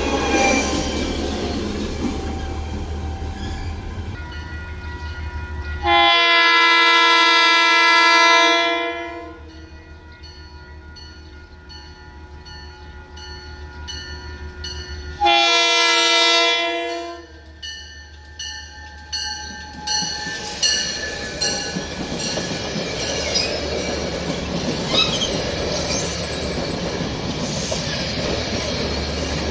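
Train horn sounding twice, a long blast of about three seconds and then a shorter one, over the rumble of a train. In the second half, the train's wheel noise builds, with repeated clicks over the rail joints.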